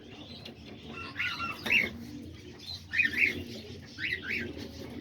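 Aviary birds calling: cockatiels give short, sharp chirps about once a second, some in quick pairs, over a low cooing of doves.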